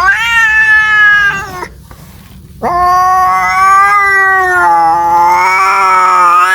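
A domestic cat yowling in two long, drawn-out calls. The first rises sharply and holds for about a second and a half. The second starts about two and a half seconds in and wavers up and down in pitch as it runs on.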